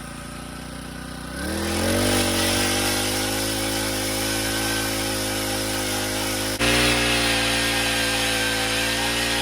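Propane-powered ice auger's engine running at low speed, then revving up about a second and a half in and holding a steady high speed as it bores a hole through the ice. There is a sharp momentary break about two-thirds of the way through.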